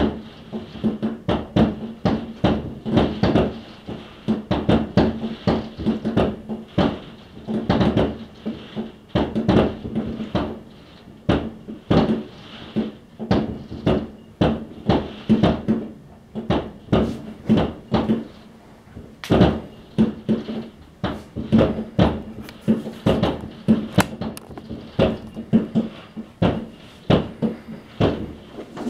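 Fireworks going off in dense, irregular succession: sharp bangs and pops, several a second, each with a short echo, over a steady low hum.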